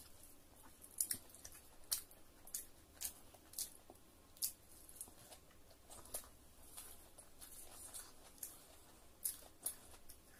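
A person eating close to the microphone: wet chewing with sharp mouth smacks and clicks coming irregularly, about one or two a second.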